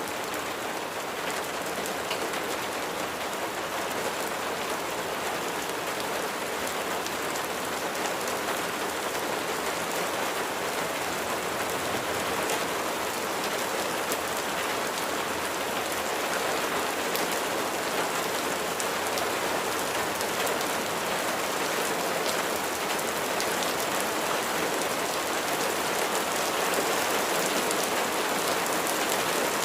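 Steady rain falling, a dense patter of many small drop impacts, growing slightly louder toward the end.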